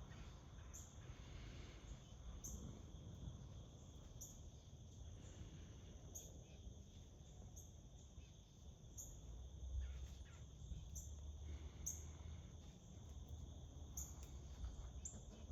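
Faint outdoor ambience: a cricket chirping in short, high notes about once a second over a low, steady rumble.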